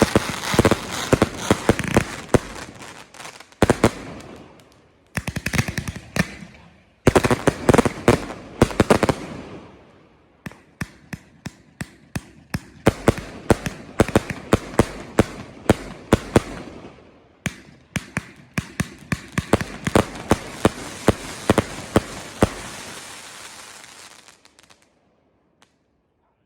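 Fireworks display: rapid volleys of shells bursting with sharp bangs and crackle, in several waves with short lulls. The volleys die away a couple of seconds before the end.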